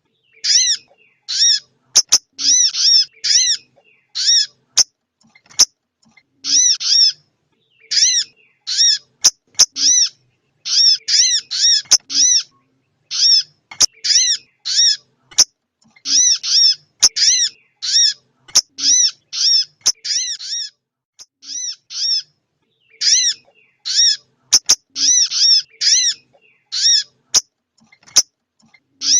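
Female sogok ontong (brown-throated sunbird) calling: short, high, sharply down-curved chip notes repeated in quick bursts of two to four, over and over with short gaps. A few faint clicks fall between the calls.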